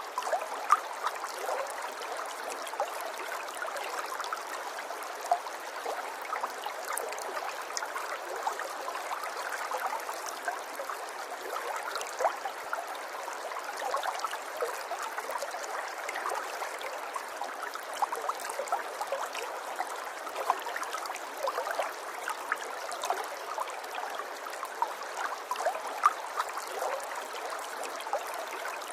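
River water flowing over stones, a steady babble with many small splashes and gurgles.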